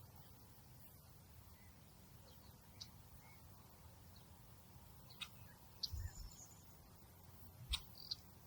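Quiet outdoor nature ambience: a faint low rumble with a few short, scattered bird chirps, and two soft low thumps about six and seven and a half seconds in.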